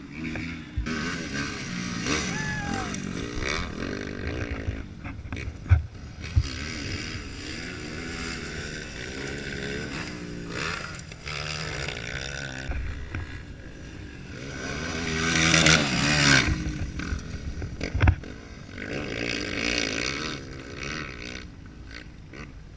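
Dirt bike engines revving, their pitch rising and falling as the throttle opens and closes, with a louder run about two-thirds through. A few sharp knocks stand out above the engine noise.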